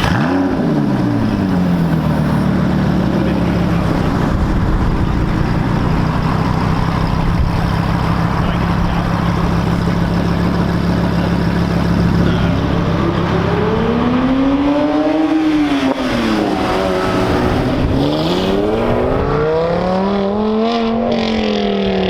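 A car engine settling from a rev to a steady idle, then revved up and back down twice, the second rev longer and slower.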